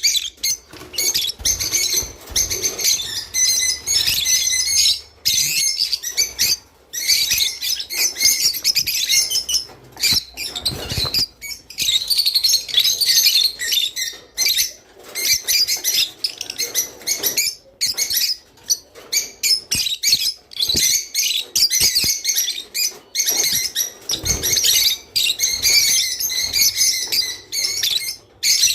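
Several rosy-faced lovebirds chattering with dense, shrill chirps and squeaks, broken by brief pauses.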